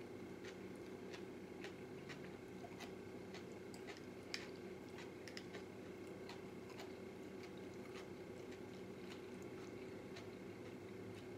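A person chewing food close to the microphone, with a run of small wet mouth clicks and smacks about two a second and one sharper click about four seconds in. A low steady hum sits underneath.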